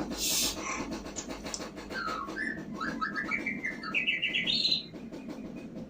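A caged songbird singing: short phrases of quick notes that climb in steps, starting about two seconds in. A brief hiss sounds at the very start.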